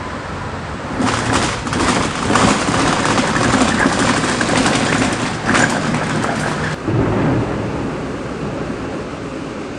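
Thunder rolling over steady rain, loud and crackling from about a second in and cutting off suddenly near seven seconds, leaving the rain.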